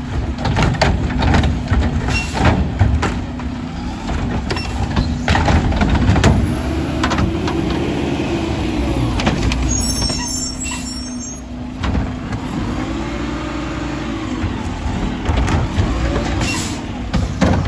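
Mack LR garbage truck with a McNeilus body working a pickup: the engine revs up and down over and over to drive the body's hydraulics, with frequent clanks and bangs. Short air hisses come about two seconds in, around the middle and near the end.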